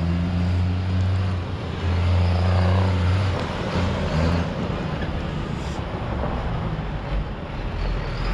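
GMC C8500 tandem dump truck's diesel engine running as the truck drives, a steady low drone that turns rougher and less even about three seconds in.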